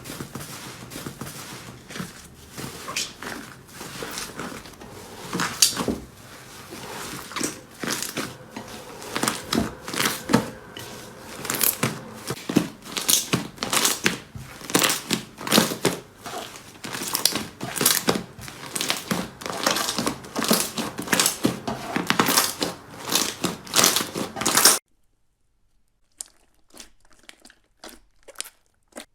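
Slime being handled and squeezed, giving a dense, irregular run of sharp clicks and pops. It stops suddenly about 25 seconds in, and a few fainter clicks follow.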